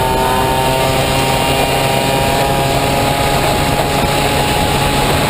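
Honda Motocompo with a Honda Dio scooter engine running at steady, high revs, loud, under a heavy rushing noise.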